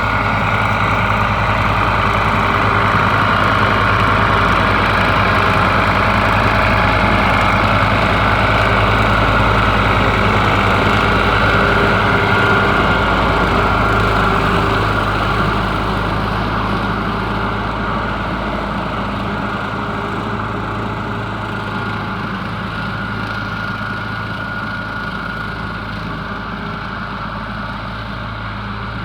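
Ford 4000 tractor's three-cylinder diesel engine running steadily while driving a seven-foot rotary cutter (bush hog), growing somewhat quieter from about halfway through.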